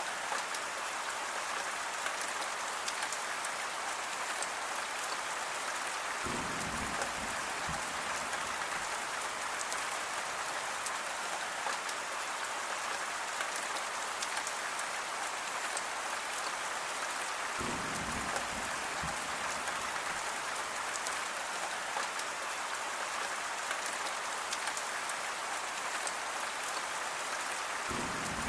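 Steady rain falling, an even hiss of many drops. A brief low rumble joins it twice, about a third and two thirds of the way through, in the pattern of a recording looped about every eleven seconds.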